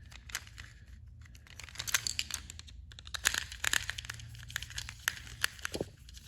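Battery-powered plastic toy train engine clicking and rattling irregularly, many small sharp clicks over a faint low hum; the engine runs but has a broken gear inside.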